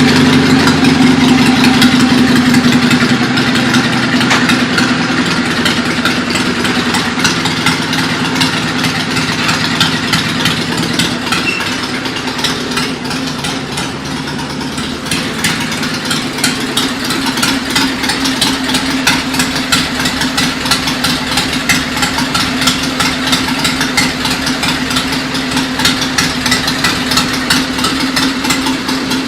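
Pulling tractor's engine running steadily at idle, with a rapid even firing beat. It eases off slightly around the middle, then comes back up.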